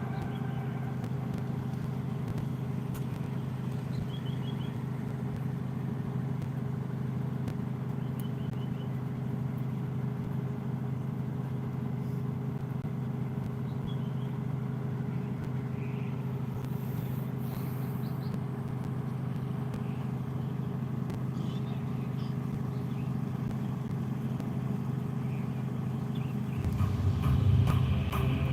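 Steady low hum with a few faint high chirps now and then; deeper low sound swells in near the end.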